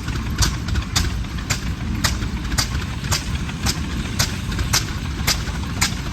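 Antique tractor engine running slowly, each firing a sharp exhaust crack, about two a second, over a low rumble.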